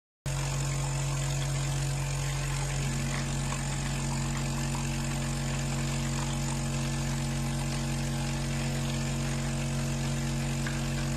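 A machine running with a steady, even hum. It starts abruptly just after the beginning and then holds.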